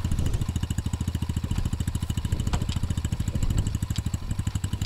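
Snowmobile engine running at low revs, with an even beat of about ten pulses a second.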